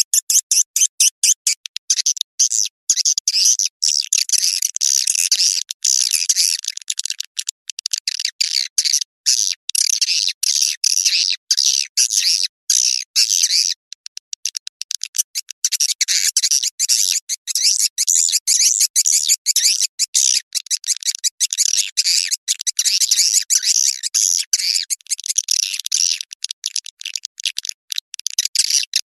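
Recorded edible-nest swiftlet calls played as a lure sound for swiftlet farming: a dense, unbroken stream of rapid high-pitched chirps and clicks with brief gaps between them.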